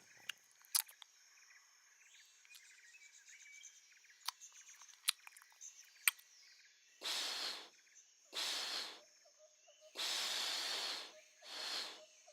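Faint outdoor nature ambience with light bird chirps and a few sharp clicks, followed by four short hissing noise bursts in the second half.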